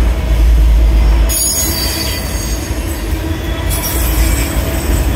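CSX autorack freight cars rolling past close by, a heavy steady rumble from wheels on the rails. A high-pitched wheel squeal sets in about a second in and carries on over the rumble.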